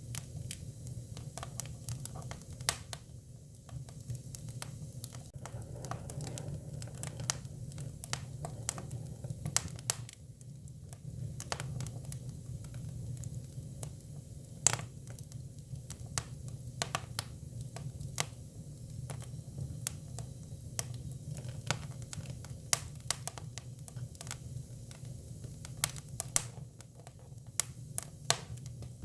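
Hinoki cypress firewood burning, crackling with irregular sharp pops over a steady low rumble.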